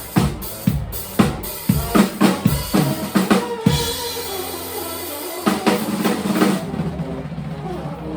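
Live band playing, with the drum kit to the fore: kick and snare hits at about two a second, a held low note in the middle, and the drumming stopping about two-thirds of the way through as the music carries on more softly.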